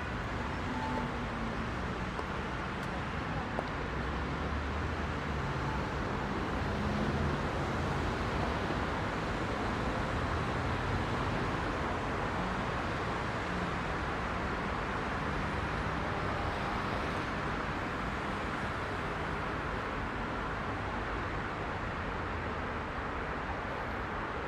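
Heavy rush-hour city traffic: a steady wash of car engines and tyre noise, with the low hum of engines rising and fading as vehicles pass.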